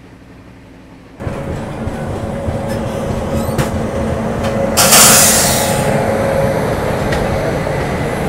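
Konark Express passenger train running on the track, heard from on board. After a second of quiet the track noise comes in suddenly and stays steady, with a loud hissing surge about five seconds in.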